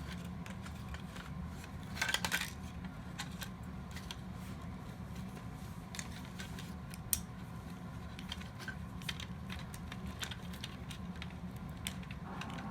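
Small plastic and metal parts of a disassembled toy robot being handled, with scattered light clicks and a short clattering cluster about two seconds in, over a steady low hum.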